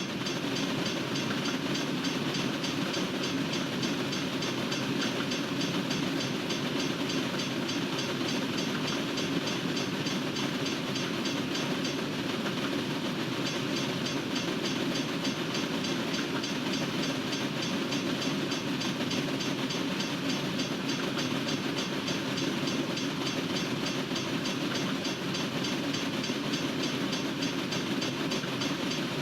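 Freight train cars rolling steadily past, steel wheels running on the rails in a continuous rumble.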